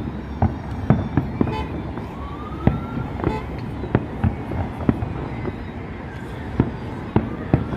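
Aerial fireworks bursting in a steady, irregular run of sharp bangs, a few each second, with a rising whistle about two seconds in and another near the end.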